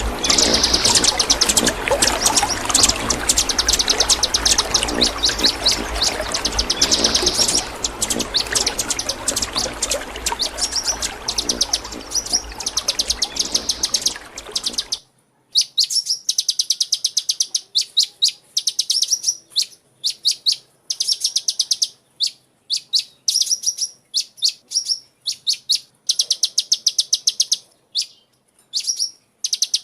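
Sunbird chirping in fast, high trills of rapid repeated notes, phrase after phrase. In the first half a steady rushing noise runs underneath; it cuts off suddenly about halfway, leaving the trills on their own.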